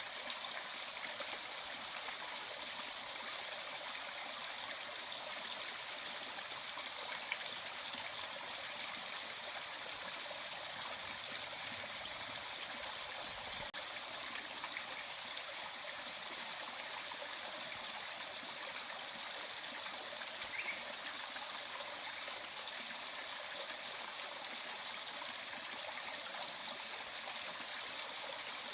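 Mountain valley stream flowing, a steady, even rushing of water with little low rumble.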